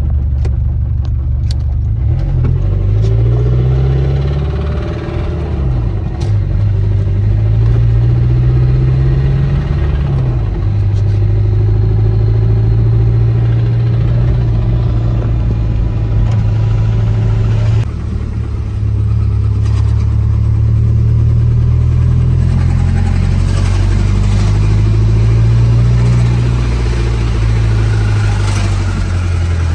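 Audi TT Mk1 engine running under load as the car is driven, its revs rising and falling several times. The engine has been starved of oil and is failing, with a worsening knock.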